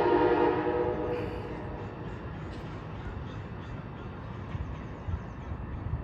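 Train horn sounding a steady chord that stops about a second in, followed by a low rumble.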